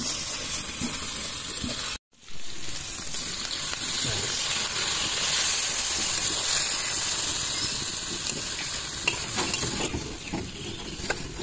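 Small fish curry sizzling in an iron wok, stirred with a spatula. The hiss drops out for an instant about two seconds in, returns louder, then eases off toward the end.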